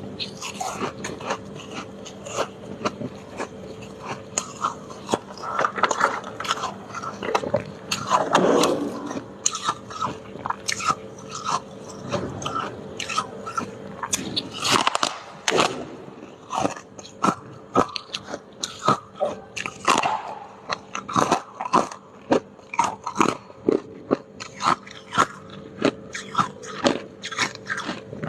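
Freezer icicles being bitten and chewed: a dense run of sharp, crisp ice crunches, several a second, with heavier crunching around a third of the way in and again about halfway. A faint steady hum runs underneath.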